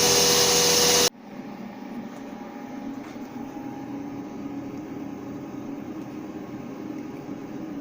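Dust-extraction vacuum on a CNC router running loudly, cutting off abruptly about a second in. A quieter steady machine hum is left behind.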